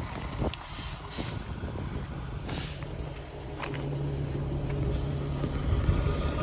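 Heavy military truck's diesel engine running at a low idle, with several short hisses of air from the air brakes in the first few seconds.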